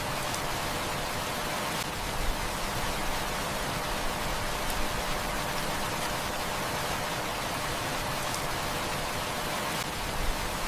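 Heavy rain falling steadily, an even hiss with a few faint clicks.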